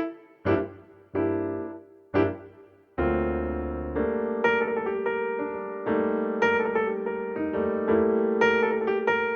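Background piano music: a few separate struck chords that ring and fade, then continuous piano playing from about three seconds in.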